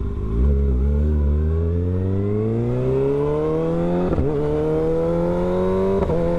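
Kawasaki ZX-6R's inline-four engine pulling under acceleration, its note climbing steadily in pitch, with two brief breaks about four and six seconds in.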